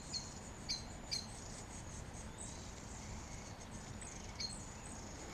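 Songbirds giving short, sharp alarm calls while mobbing a jay that has taken a nestling. A few calls come in quick succession, then a pause, then one more near the end.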